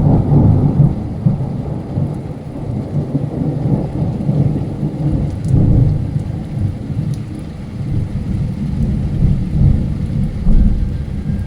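Thunder rumbling in long waves, loudest at the start, over steady heavy rain.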